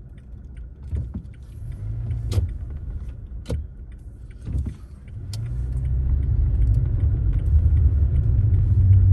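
Car driving: a low engine and road rumble that grows louder about five seconds in as the car picks up speed, with a few sharp clicks or knocks in the first half.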